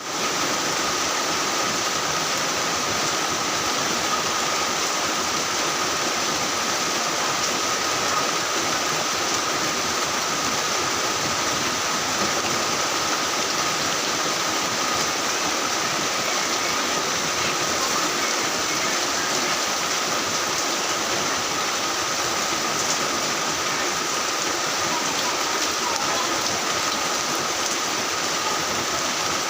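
Heavy rain falling steadily, an even unbroken hiss, with a thin steady tone running beneath it.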